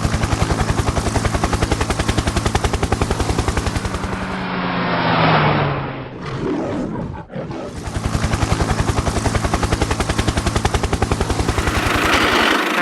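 Cartoon vehicle sound effect: a rapid, even chopping pulse. Around the middle it gives way to a swelling whoosh with a falling tone, then the pulsing resumes.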